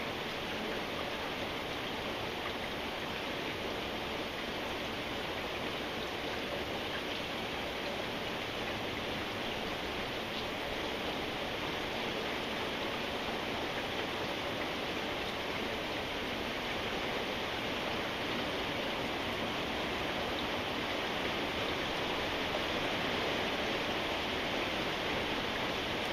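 Steady rain falling: an even, unbroken hiss of rain with no separate drops or thunder standing out, growing slightly louder toward the end.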